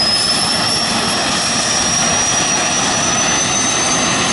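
Jet dragster's turbine engine running: a loud, steady rush with a thin high whine slowly rising in pitch.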